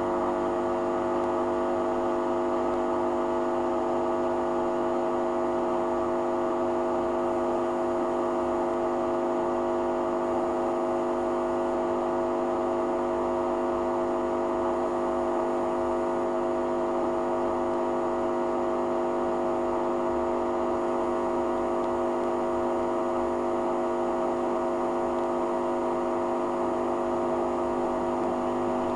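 Hoover Dynamic DYN11146PGBCH washing machine running in its rinse cycle: a steady motor hum held at one even pitch, with the drum turning at constant speed.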